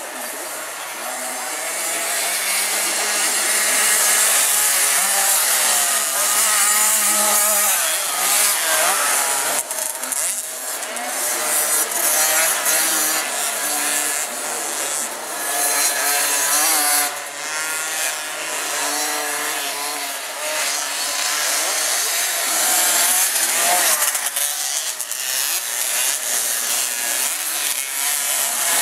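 Small 50 cc two-stroke motocross bike engines buzzing at high revs. Their pitch rises and falls as the riders work the throttle, with more than one engine heard at once.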